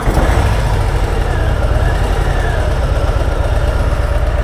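Harley-Davidson V-twin engine catching right at the start and settling into a steady, pulsing idle.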